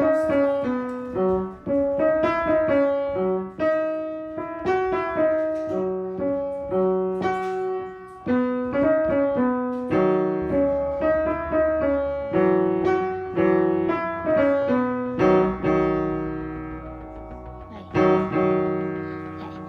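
A piece played on the piano from sheet music: a melody of struck notes over chords, each note fading after it is struck. Low bass notes come in about halfway through.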